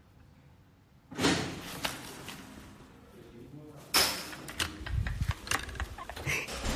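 A neighbour's door banging about a second in, with an echoing tail. A second sharp bang comes about four seconds in, followed by a clatter of smaller knocks.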